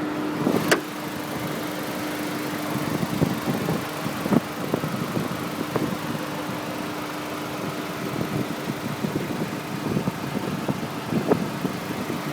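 2001 Audi TT quattro's 1.8-litre turbocharged five-valve inline-four idling steadily and quietly with the hood open. A sharp click comes just under a second in.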